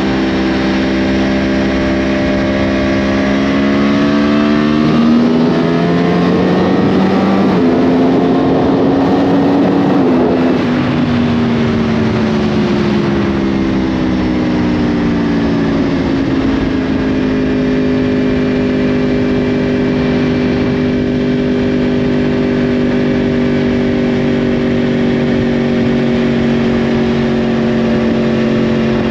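2010 Yamaha R1's crossplane inline-four with a Yoshimura exhaust, accelerating hard: the pitch climbs, dips once at an upshift about five seconds in, and climbs again. Then the revs fall away over several seconds and settle into a steady cruise.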